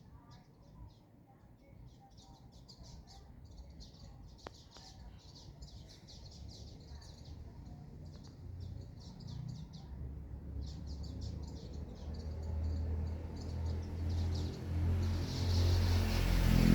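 Small birds chirping in quick runs of high-pitched notes, with a low rumble that grows steadily louder through the second half.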